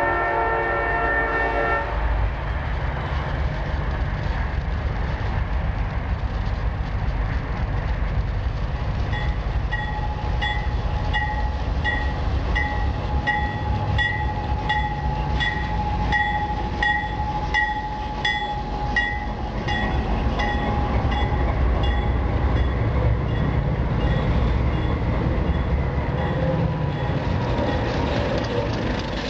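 A diesel train's horn chord cuts off about two seconds in, leaving the steady low rumble of the train. From about a third of the way in until about two-thirds through, a bell dings about twice a second over the rumble.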